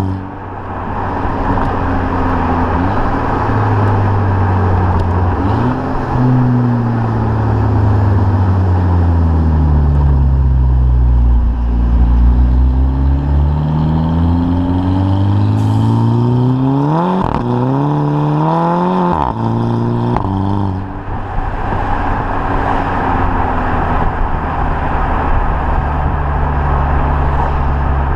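VW Mk5 GTI's turbocharged 2.0-litre four-cylinder running through a catless 3-inch downpipe and stock cat-back exhaust. The engine note falls slowly as the car slows, then rises under acceleration with two quick gear changes from the DSG gearbox, each dropping the pitch, and settles into a steady cruise near the end.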